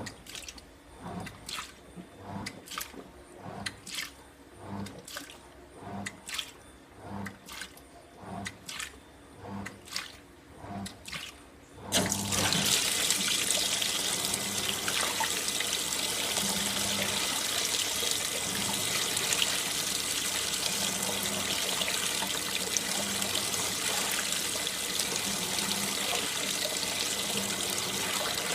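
AQUA MCW-C50 coin-operated top-loading washing machine: regular short swishing strokes with low thuds, about one and a half a second, then about twelve seconds in, water suddenly starts gushing into the tub with a loud, steady rush.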